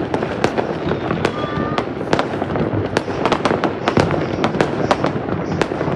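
Fireworks going off in a dense barrage: sharp bangs and cracks several times a second over a continuous crackling rumble.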